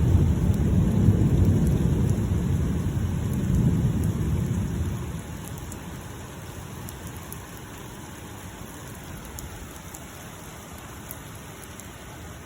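A long roll of thunder rumbling low and fading away over the first five seconds, with a brief swell near four seconds, then steady rain.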